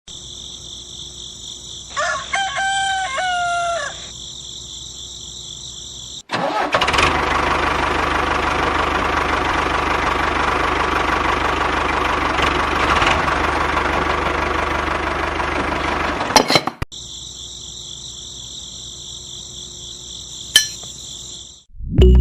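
A rooster crows once over a steady high buzz. Then, for about ten seconds, a machine runs loudly with a steady low hum, starting and stopping abruptly. The steady high buzz returns near the end, with a single click.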